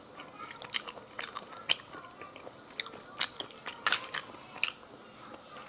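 Eating sounds of a person chewing seafood: irregular wet clicks and smacks, the strongest about three and four seconds in.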